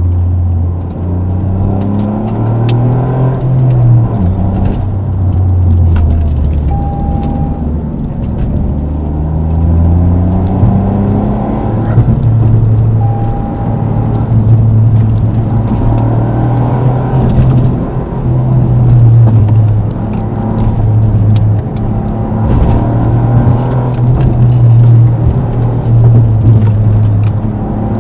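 Car engine heard from inside the cabin while driving a winding road. Its pitch repeatedly climbs under acceleration and drops back at gear changes or lifts off the throttle. Two short electronic beeps sound about 7 and 13 seconds in.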